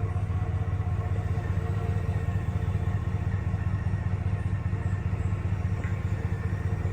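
Supercharged 6.0-litre V8 idling steadily with an even low rumble and a faint steady whine above it.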